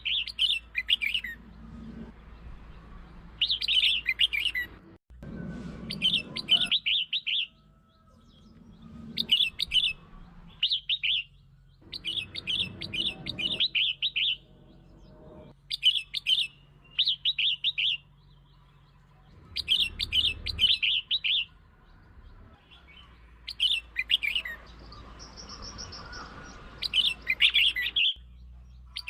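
Red-whiskered bulbul singing: short, bright warbled phrases of about a second each, repeated a dozen or so times with short pauses between, over a faint low hum.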